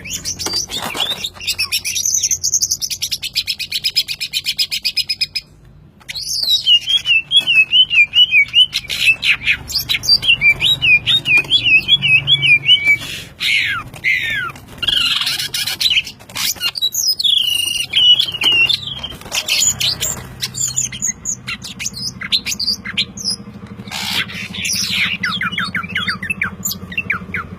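Young green leafbird (cucak ijo) singing continuously and vigorously: fast warbling trills and wavering high notes, with a rapid rattling buzz early on and a brief pause about six seconds in.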